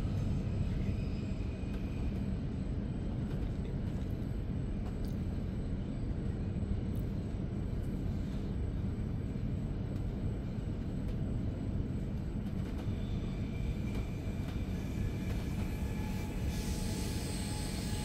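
Interior sound of a Re 450 DPZ double-deck commuter train running along the line: a steady low rumble with occasional clicks. Near the end a hiss and a few faint tones come in.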